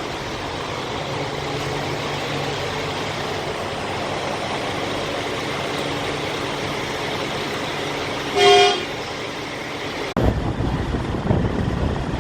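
Steady engine noise of idling vehicles, cut once by a short, loud vehicle horn toot about eight and a half seconds in. About ten seconds in, a heavier low rumble suddenly takes over.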